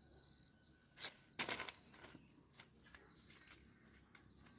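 Crickets chirping steadily, a high pulsing trill, with two short rustling noises about a second in, the second one the louder.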